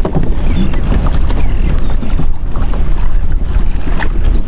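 Wind buffeting the microphone, making a loud, uneven low rumble.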